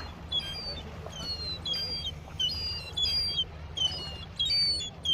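Young gull calling repeatedly: a run of short, high, thin cries, each falling slightly in pitch, about one every half second.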